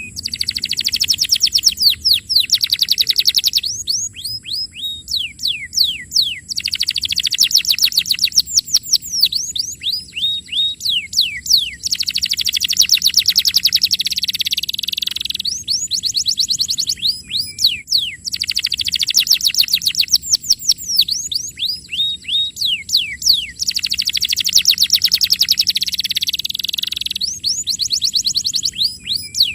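Domestic canary singing: very fast rolling trills of repeated notes alternate with phrases of separate, falling whistled notes, in a long continuous song.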